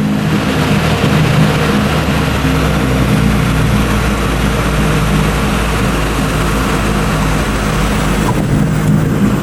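Cockpit noise of a Cessna 400's turbocharged six-cylinder engine and propeller in cruise: a steady drone with a loud even rush of airflow over it.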